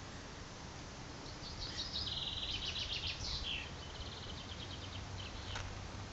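A small songbird singing a quick, high trilled phrase about a second in, then a softer trill, over steady outdoor background noise.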